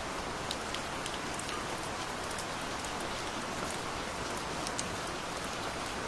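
Steady gentle rain: an even hiss of rainfall with scattered individual drops ticking through it.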